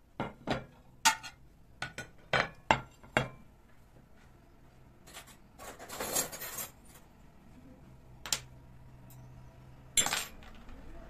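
A string of sharp clinks and knocks of hard objects handled against each other, about eight in quick succession, then a short rustling hiss in the middle, a lone knock, and one louder clatter near the end.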